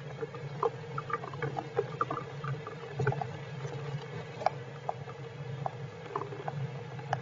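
Heavy rain falling as irregular drops and taps, several a second, over a steady low hum.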